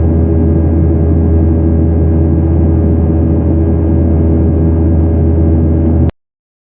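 Steady engine drone of a Boeing 737-900ER heard inside the cabin in flight: a strong low hum with several held tones above it from its CFM56-7B engines. The sound cuts off suddenly about six seconds in.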